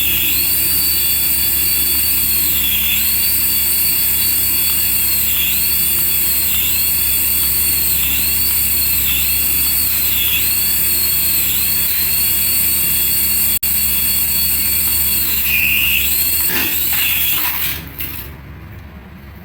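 Battery-powered toy's electronic sound effect: a high warbling tone over a low hum, dipping and returning every second or so. It cuts off a couple of seconds before the end.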